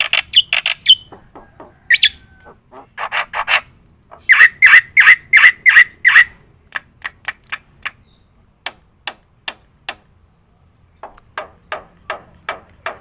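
Black-winged starling (jalak putih) calling: a string of short, sharp clicking notes, with a fast run of about eight harsher notes between four and six seconds in, then sparser single clicks.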